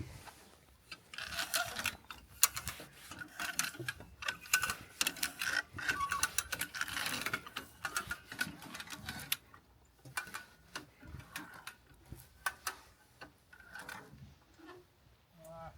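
Hand come-along ratchet clicking as it is cranked to tension fence wire and stand a post upright. There is a rapid run of clicks for most of the first ten seconds, then slower, sparser clicks.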